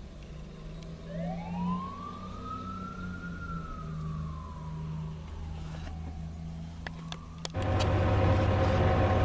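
Fire engine siren wailing, one slow rise and long fall in pitch, then starting to rise again, over a steady low hum. About three quarters of the way through a much louder, steady rumble cuts in and dominates.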